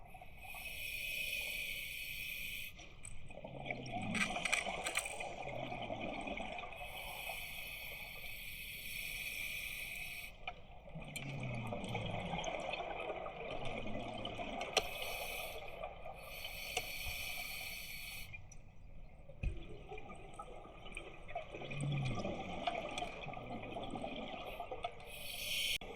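Scuba regulator breathing underwater: a steady hissing inhale through the demand valve alternating with gurgling rushes of exhaled bubbles, three exhalations in all.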